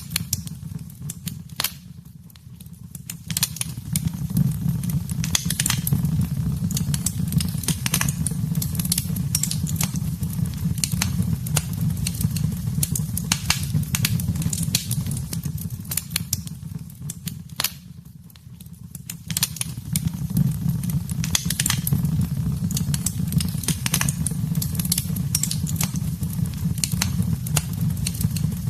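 Wood fire in a fireplace crackling and popping irregularly over a steady low rumble of flames, easing off briefly twice.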